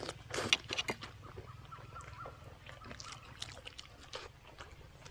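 A person chewing braised pork leg: a cluster of sharp wet mouth clicks and smacks in the first second, then scattered quieter chewing clicks.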